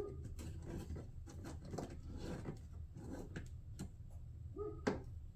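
Light scattered clicks and rubbing of a screw and washer being started by hand into a plastic shroud, with one sharper click about five seconds in.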